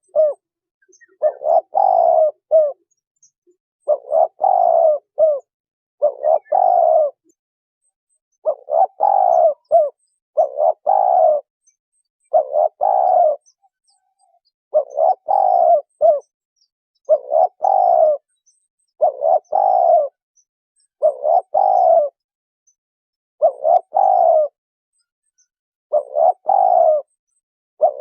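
Spotted dove cooing: a short, loud coo phrase repeated about every two seconds, with silence between the calls.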